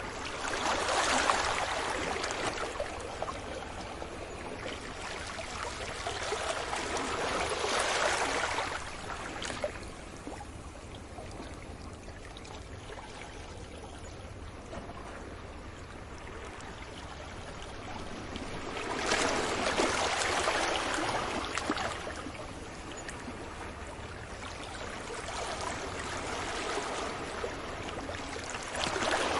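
Sea waves breaking gently on a beach and washing back, with several swells of surf rising and fading over the steady wash of the sea, about 1, 8 and 20 seconds in, and a softer one near the end.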